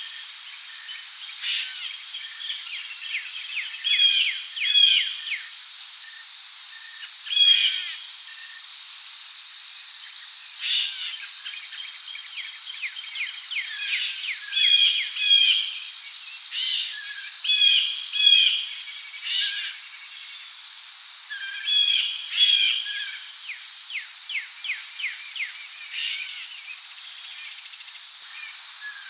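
Rainforest ambience: a steady high-pitched drone of crickets, with birds calling over it again and again in short chirps, paired notes and quick trills.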